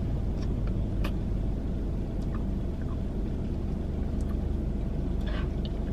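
Steady low rumble of an idling car with its air conditioning running, heard from inside the cabin, with a few faint clicks.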